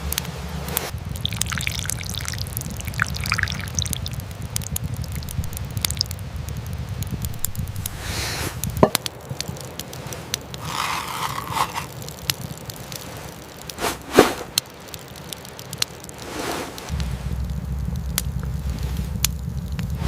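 Rain dripping and pattering, with scattered sharp ticks and crackles and a few brief liquid sounds. A steady low rumble underneath drops out partway through and comes back near the end.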